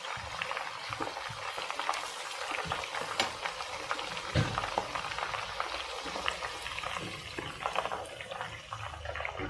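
Chicken pieces shallow-frying in hot coconut oil on a low flame: a steady sizzle dotted with many small crackles and pops. There is a soft low knock about four seconds in.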